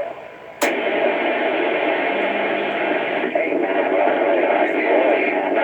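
CB radio receiving a station: about half a second in, a carrier comes in with a sudden burst of static and hiss, and faint garbled voices under it, the sound of a weak or distant transmission over the Cobra 29's speaker.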